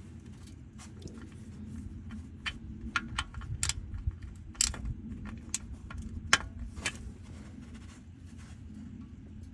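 A quick run of light, sharp clicks and clinks, about a dozen in the middle few seconds, over a steady low hum.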